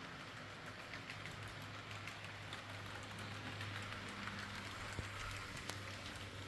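HO scale model train running along its track: a steady electric motor hum with many faint, rapid clicks of the wheels on the rails.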